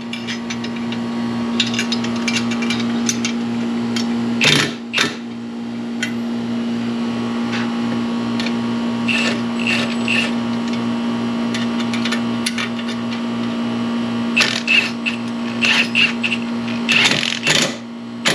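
A machine hums steadily with a regular low pulse, while hand tools and metal parts click and knock, singly about four and five seconds in and in quick clusters near the middle and toward the end.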